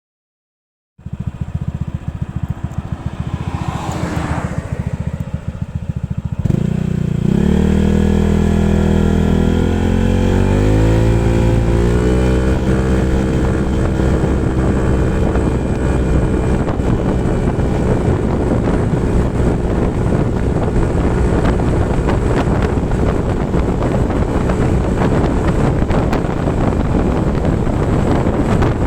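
Honda ADV 150 scooter's single-cylinder engine, accelerating at full throttle: its note climbs for several seconds from about six seconds in, then holds a steady high drone at speed. Wind rumbles on the microphone throughout.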